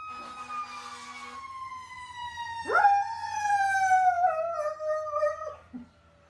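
Dog howling: a long wail slowly sinking in pitch, then, nearly three seconds in, a fresh howl that swoops up sharply and slowly falls away, stopping about half a second before the end.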